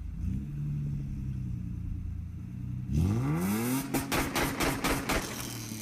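Car engine idling low, then revved hard about halfway through, its note sweeping up quickly and holding. This is followed by a rapid run of sharp exhaust pops and crackles.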